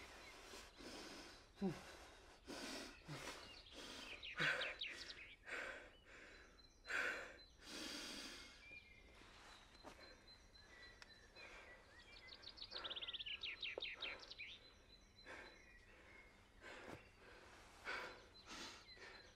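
A man breathing hard, a run of quick uneven breaths that are loudest in the first half, with a bird calling and a rapid trill about thirteen seconds in.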